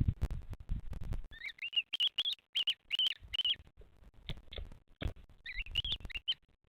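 A bird giving short, high, arched chirps in two runs: about a dozen quick notes from just over a second in, then a shorter run near the end. Low scratching and thumping sounds come and go around them.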